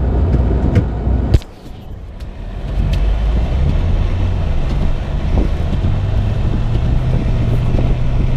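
Car driving through deep snow, heard from inside the cabin: a low rumble of engine and tyres. A sharp knock comes about a second and a half in and is followed by a short quieter spell, then the engine note rises steadily as the car picks up speed.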